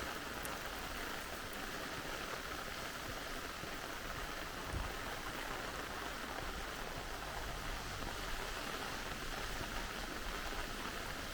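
Steady hiss of rain falling, mixed with the rush of a valley stream.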